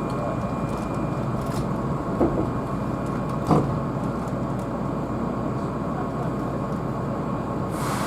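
Keihan electric train running at speed, heard from inside a passenger car: a steady rumble with two short knocks, about two and three and a half seconds in.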